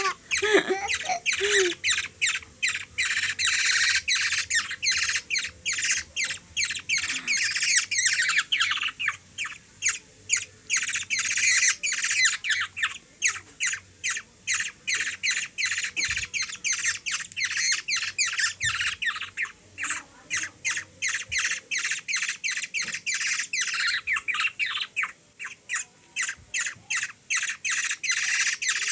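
Young black-naped oriole giving harsh, rasping begging squawks over and over, about three a second: a hungry baby bird calling for food while it is being hand-fed.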